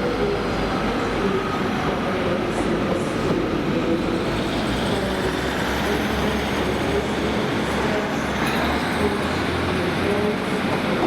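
ScotRail Class 156 diesel multiple unit running in the station, its underfloor diesel engines giving a steady hum with a few held tones.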